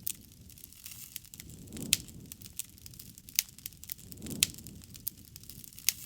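Wood campfire crackling steadily, with a run of small snaps and louder sharp pops about two, three and a half, four and a half and six seconds in.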